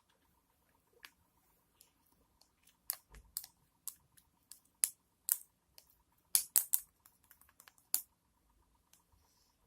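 Sticky green slime being pressed and stretched by hand, giving irregular sharp clicks and pops that come thickest in the middle.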